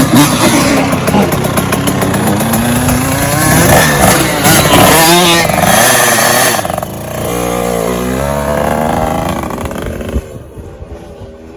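KTM 85 SX two-stroke single-cylinder dirt bike engine revving up and down repeatedly, settling to a lower, steadier note about seven seconds in and falling away to a much quieter sound about ten seconds in.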